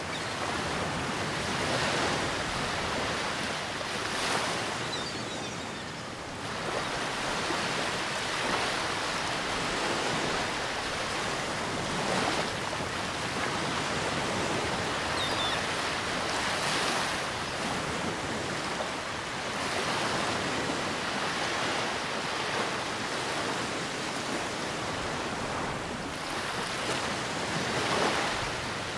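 Ocean surf breaking and washing up the beach, a continuous rush that surges every few seconds, with wind.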